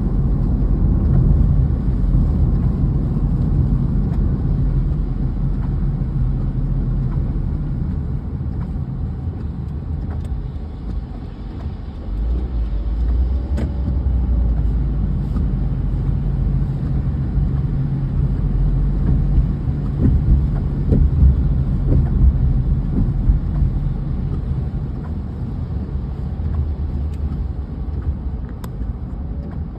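Car driving: a steady low engine and road rumble that eases slightly about twelve seconds in and swells again a little later.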